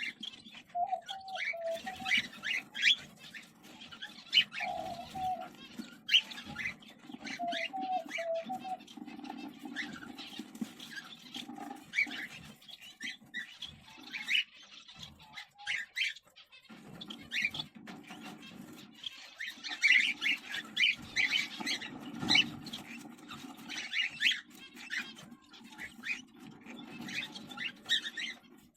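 Cockatiels in a nest box with their chick: many short, scratchy calls and chirps coming in uneven bursts, with some lower repeated notes in the first few seconds.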